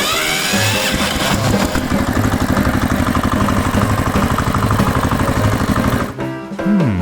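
An engine starting, with a rising whine as it catches, then running with a fast, even beat; it stops about six seconds in. Background music plays underneath.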